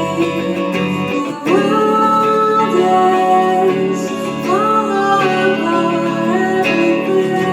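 Live band performance of a song: a singer holds long notes, sliding up into them twice, over guitar chords.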